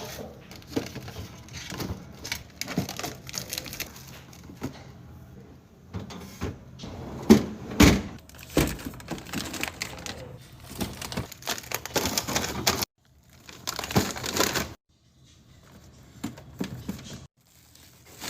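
Packaging crinkling and containers clicking and knocking as groceries are handled and put away in a fridge, with a louder knock about seven to eight seconds in. The sound cuts out abruptly a few times in the second half.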